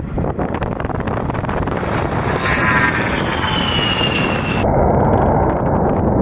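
Military jet aircraft engine noise mixed with wind buffeting the microphone, with a high whine slowly falling in pitch through the middle; about four and a half seconds in, the sound changes abruptly to a duller rumble.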